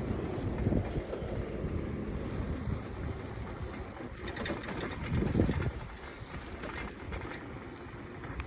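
Low rumbling noise on the microphone while riding a bicycle, with a few light clicks and rattles and a louder swell about five seconds in.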